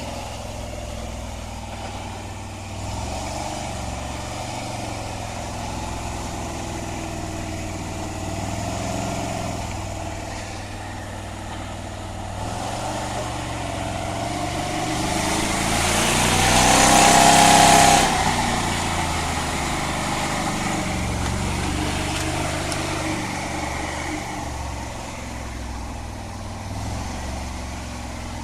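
The GAZ-66 V8 petrol engine of a homemade UAZ-based all-terrain vehicle running under load, revving harder and louder about halfway through, then dropping back suddenly to a steadier pull.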